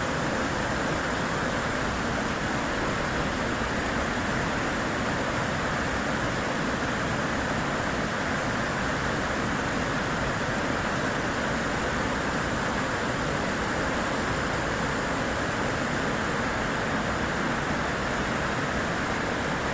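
Waterfall and whitewater rapids rushing, a steady, even wash of noise.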